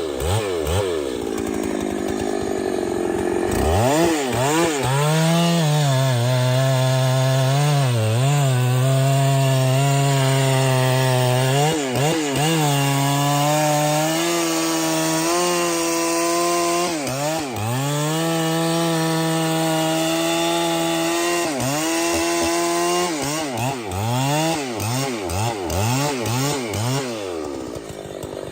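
Chainsaw cutting through a tree trunk. The engine revs up and down at first, then runs at a steady, lower pitch under load for most of the cut, dipping briefly several times. Near the end it revs up and down again.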